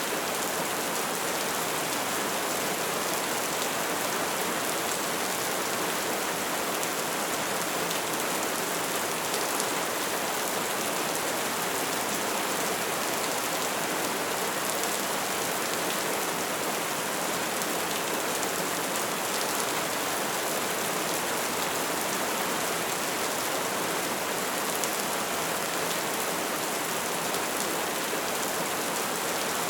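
Wood fire burning steadily: a constant hiss of flames with scattered light crackles.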